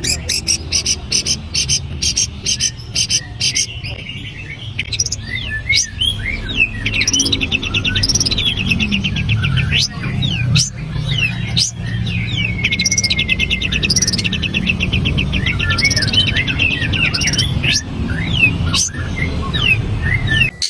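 Long-tailed shrike (cendet) singing a long, unbroken mimicry song that imitates the walang kapas insect. It opens with a run of rapid clicks, about five a second. From about 4 s in it switches to quick high whistled slurs mixed with fast buzzy trills. A steady low hum runs underneath.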